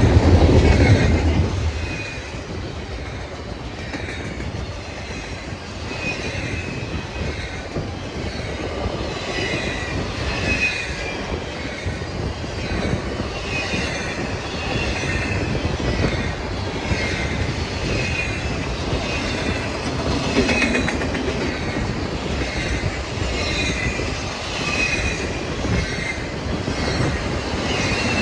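A train passing close by. A heavy low rumble is loudest in the first couple of seconds, then the cars roll past steadily with repeated short, high wheel squeals.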